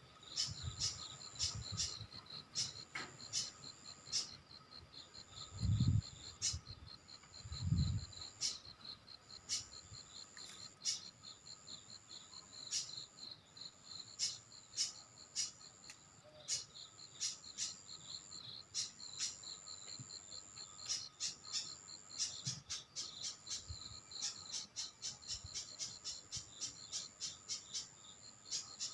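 Crickets chirping and trilling in high, on-off stretches, with many short sharp clicks throughout. Two dull low thumps sound about six and eight seconds in.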